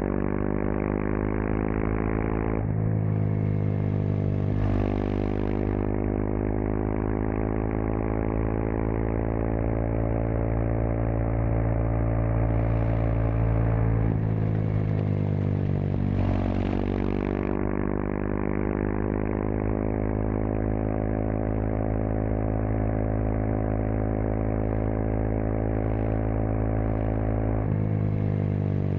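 Kawasaki KLX230SM's air-cooled single-cylinder engine running under way through a K-Factory FRC slip-on silencer. The exhaust note holds fairly steady, shifting in pitch about three seconds in, again about halfway through, and near the end.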